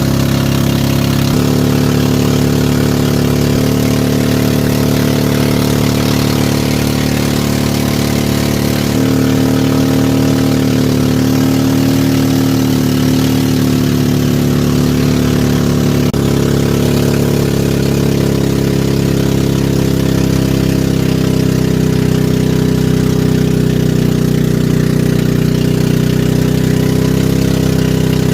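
Small riverboat's engine running steadily and loud, close by, its pitch shifting slightly a few times.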